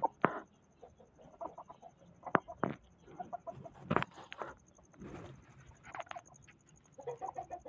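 Birds calling in short, irregular bursts of quick repeated notes, mixed with a few sharp clicks or taps, over a faint steady high whine.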